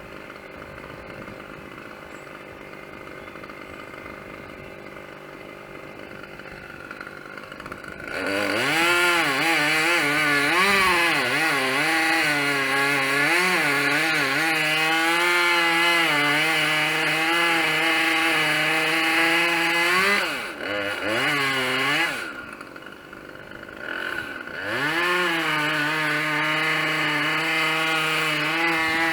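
Chainsaw engine idling, then opened up about eight seconds in and cutting wood for around twelve seconds, its pitch wavering under load. It drops back to idle with a short blip, then revs up and cuts again for the last few seconds.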